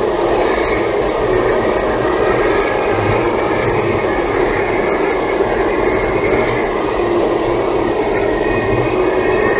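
Steady road noise inside a Toyota Tank's cabin while driving at speed in rain: tyres on the wet road and the engine running evenly.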